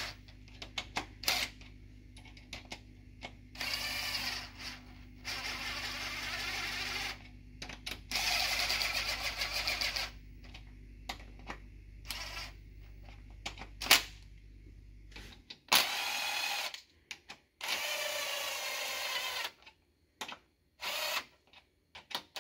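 Cordless power tool running in the main bearing cap bolts of a VW EA888 engine block in five short bursts, with a few sharp metal clicks between them. A steady low hum underneath stops about two-thirds of the way through.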